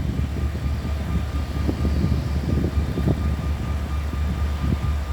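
Steady low engine rumble with a faint, thin, steady whine above it.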